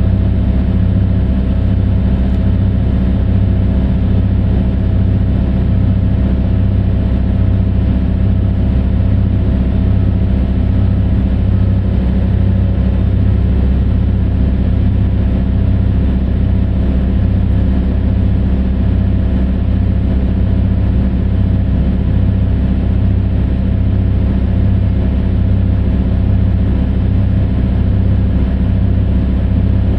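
Heavy mining machine's large diesel engine running steadily at an even speed: a deep, constant drone with a regular low pulse.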